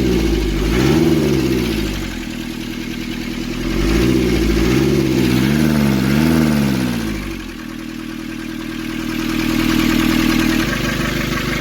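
Nissan Urvan's ZD30 four-cylinder diesel engine revved in blips: one about a second in, then three quick ones in a row near the middle, before it drops back to a steady idle.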